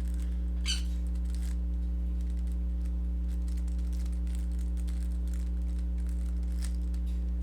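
Faint, quick, irregular clicking of a Rubik's cube's plastic layers being turned through an algorithm, one click a little louder just under a second in, over a steady low electrical hum.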